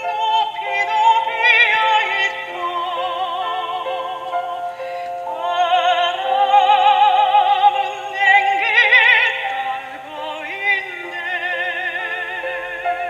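Soprano voice singing a song in operatic style with wide vibrato, over instrumental accompaniment.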